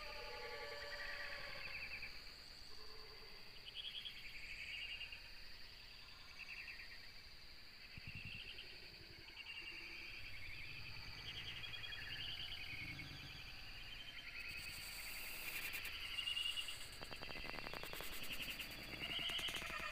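Birds chirping and calling in short scattered phrases over a steady high-pitched drone. In the last few seconds there is a brief burst of noise and a rapid rattle.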